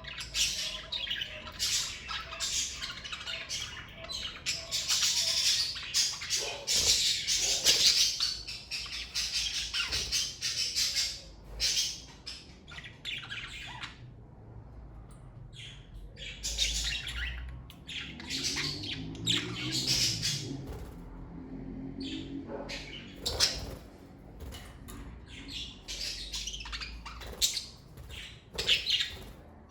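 A group of pet budgerigars chattering, with busy chirps and squawks. The calls thin out briefly about halfway through, then pick up again.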